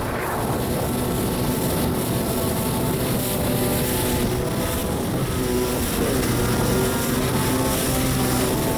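1993 Kawasaki 650SX stand-up jet ski's two-stroke twin engine running under way, loud and steady. Its pitch shifts briefly at the start and again about six seconds in as the throttle changes.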